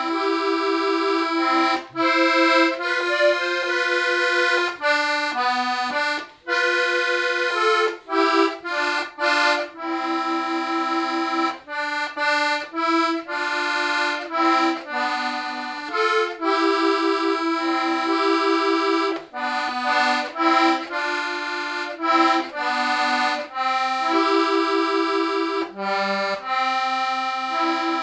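Club IIB diatonic button accordion playing a folk melody with chordal accompaniment, the notes separated by short breaks in the bellows sound.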